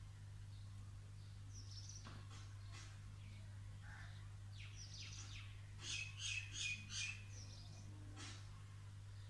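Birds chirping, with a run of four loud, quick repeated calls about six seconds in, over a steady low hum.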